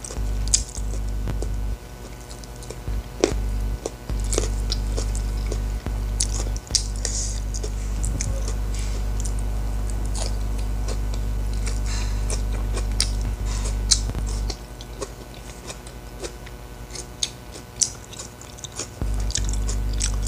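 Close-miked chewing while eating a rice meal by hand: many quick wet mouth clicks and smacks. A steady low hum runs underneath and drops out for a few seconds near the end.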